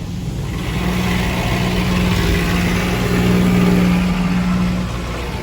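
High-pressure rinse water from a touchless car wash spraying onto the car, heard from inside the cabin: a rushing hiss that swells after about half a second, peaks a little past the middle and eases near the end, over a steady low hum and drone.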